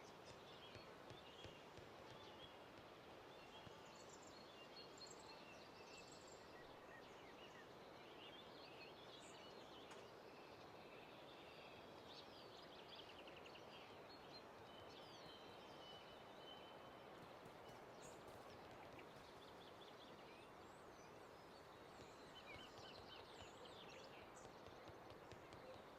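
Near silence: a faint steady hiss with scattered, faint high chirps of small birds.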